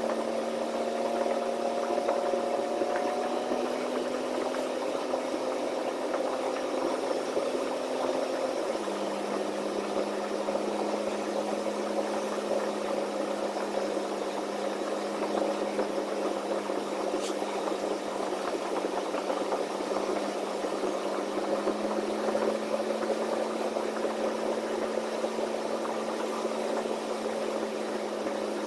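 Semi-truck diesel engine running steadily under a haze of road noise. Its drone steps down to a lower pitch about a third of the way in and edges back up a little later on.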